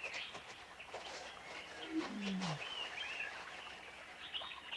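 Wild animal sounds: small birds chirping on and off, and about two seconds in a single low animal call that falls in pitch over about half a second.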